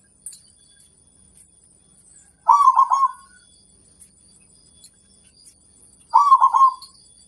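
Zebra dove (perkutut) cooing: two short phrases, each of three or four quick rolling notes, the first about two and a half seconds in and the second near the end. Between them are faint high chirps from small birds and a thin, steady high-pitched whine.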